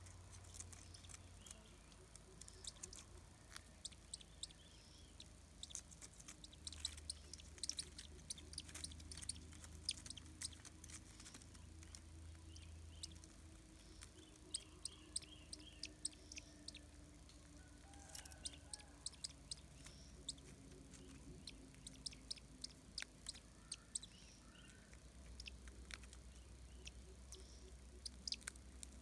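Faint sharp clicks and ticks in irregular clusters: a shikra's bill tearing at a rat and feeding its chick in the nest. A low hum comes and goes underneath.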